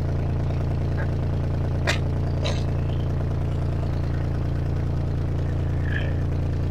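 Tractor diesel engine idling steadily, with two sharp knocks about two seconds in.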